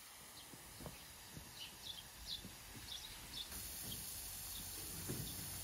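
Small birds chirping in short, high calls several times a second, over a faint steady hiss and a few soft knocks.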